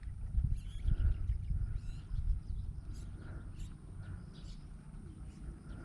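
Small birds chirping intermittently over a low rumble of wind and handling noise on the microphone, with a couple of faint clicks about three seconds in.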